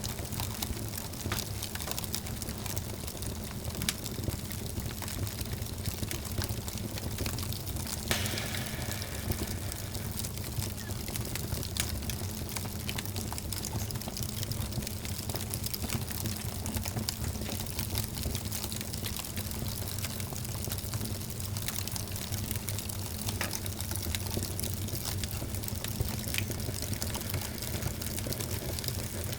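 Wood fire burning in a fireplace: a steady low rumble of flames with frequent small crackles and pops, and a brief louder hiss about eight seconds in.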